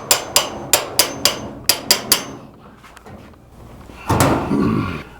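A quick run of sharp knocks, like hammer blows, about eight in two seconds. A louder rasping scrape follows about four seconds in.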